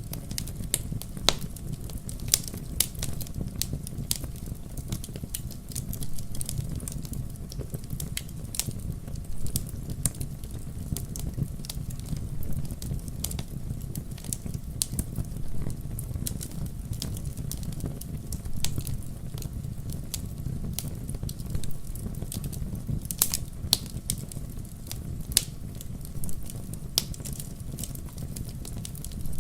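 Wood fire in a fireplace: logs crackling with frequent sharp pops and snaps over a steady low rush of the flames.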